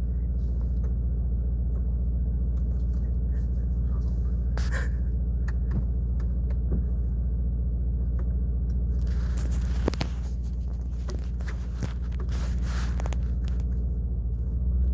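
Mercedes-AMG E63 4MATIC (W213) 4.0-litre twin-turbo V8 idling steadily through an iPE valved exhaust, a low even rumble with no revving. A few light clicks and short hissing noises come in around the middle.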